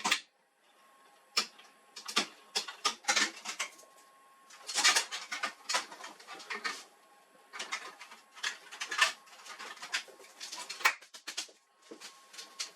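Irregular clicking, scraping and rattling of hard plastic and metal parts being handled during laser printer disassembly, with a faint steady tone underneath.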